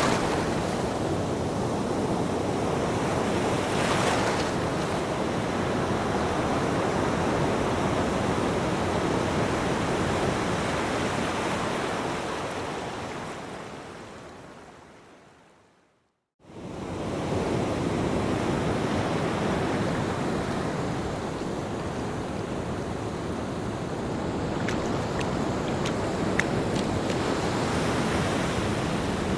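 Ocean surf washing onto a beach, a steady rush of breaking waves. About halfway through it fades away to silence for a moment, then comes back suddenly.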